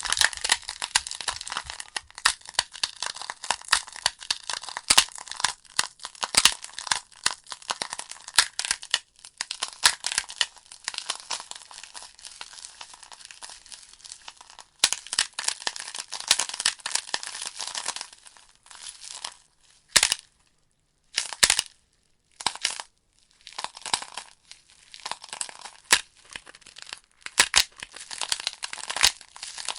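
Burning logs in a fireplace crackling, with dense, irregular sharp pops and snaps. The crackle thins out and drops out briefly a couple of times about two-thirds of the way through.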